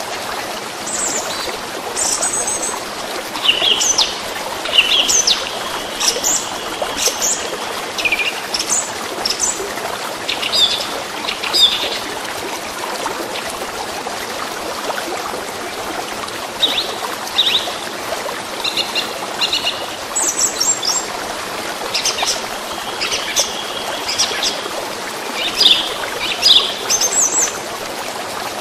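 Small birds chirping and calling over the steady rush of flowing water, like a stream. The calls come in two busy spells, thinning out for a few seconds in the middle.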